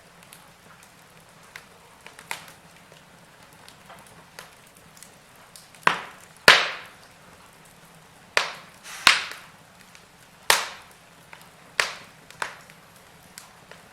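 Wood fire crackling: a faint hiss broken by sharp, irregular pops from the burning logs. The pops are small and sparse at first, then about seven louder ones come in the second half.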